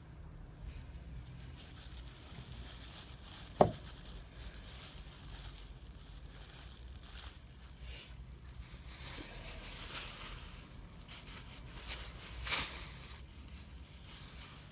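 Rustling handling noises, like packaging or parts being handled, with one sharp click about three and a half seconds in and a louder rustle near the end.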